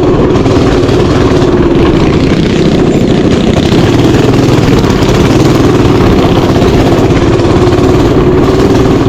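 Mini bike engine running steadily at a fairly constant, slightly wavering pitch.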